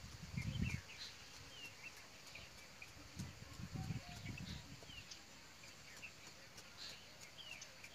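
Small birds chirping in short, falling chirps at scattered moments, over quiet rural ambience, with two low rumbles: one at the start and one about three to four seconds in.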